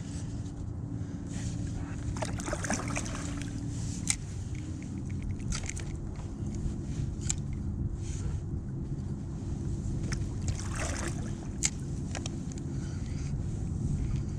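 Water splashing and sloshing against a kayak on a choppy sea every few seconds, over a steady low wind rumble on the microphone.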